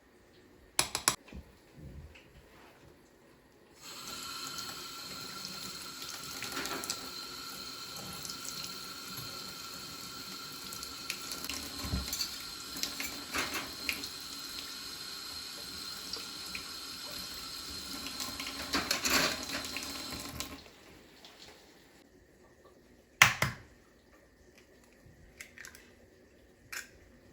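A kitchen tap runs water into a sink for about sixteen seconds, starting about four seconds in and shut off about twenty seconds in, with things knocking in the sink under the stream. There are a few sharp clicks before it and one loud knock a few seconds after it stops.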